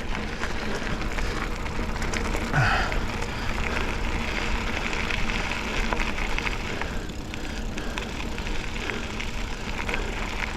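Mountain bike rolling over a dirt double-track trail: steady tyre and trail noise with frequent clicks and rattles from the bike jolting over the ground, and a brief squeak about two and a half seconds in.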